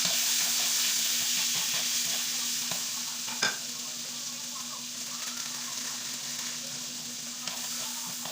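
Food frying in a hot pan, sizzling steadily while it is stirred with a utensil, with small scrapes and clicks and one sharper knock about three and a half seconds in.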